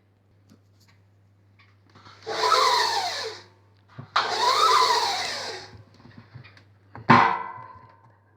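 Bosch Maxx 5 front-loading washing machine running with water in it: two surges a second or two long, each with a whine that rises and falls, then a sharp knock near the end that rings briefly.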